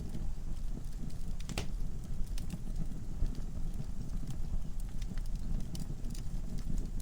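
Wood fire burning in a fireplace, with irregular crackles and pops of the logs over a steady low rumble of flames. One sharper pop comes about a second and a half in.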